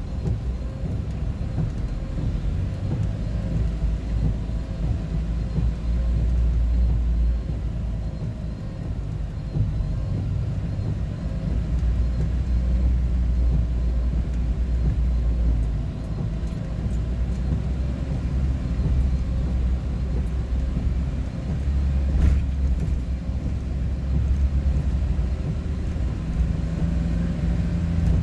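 Road vehicle driving along steadily, heard from inside: a continuous low rumble of engine and tyres, with one short click late on.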